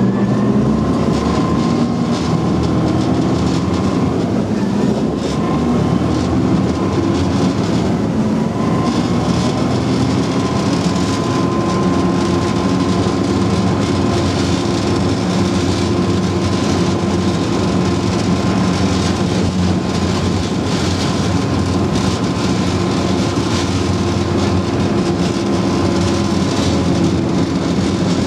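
Type 94 amphibious mine-laying vehicle's engine running under load, a loud steady drone. Its pitch rises near the start and again about eight seconds in, then holds steady.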